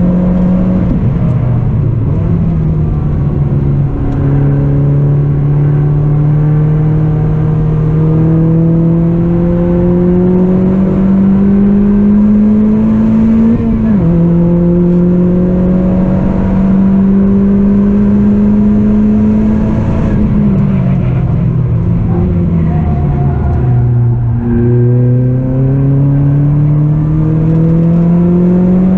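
Lotus Elise S220's supercharged 1.8-litre four-cylinder engine with a Stage 3 exhaust, heard from inside the cabin while lapping a race track. The engine note climbs steadily, drops sharply about midway, falls off for a few seconds later on, then climbs again near the end.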